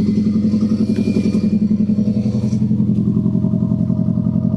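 Subaru Impreza WRX's 2-litre turbocharged boxer engine idling through a straight-pipe exhaust, with a steady, fast-pulsing beat.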